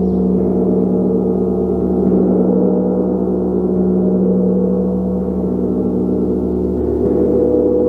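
Gong played continuously: a dense, sustained wash of many overlapping ringing tones, the strongest a low hum, swelling gently in loudness without distinct separate strikes.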